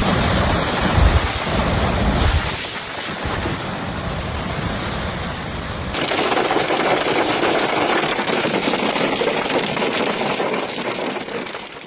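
Severe thunderstorm: a steady noisy roar of wind and wind-driven precipitation, with wind rumbling heavily on the microphone for the first couple of seconds. About six seconds in it changes abruptly to a brighter, louder hiss of pelting precipitation.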